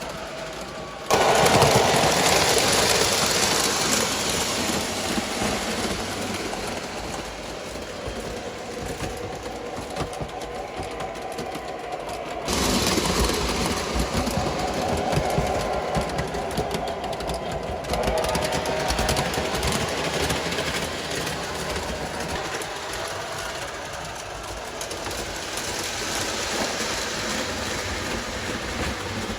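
Model electric trains running on a home layout's track: a steady whirring rumble of motors and wheels on rail. It gets suddenly louder about a second in and again near the middle.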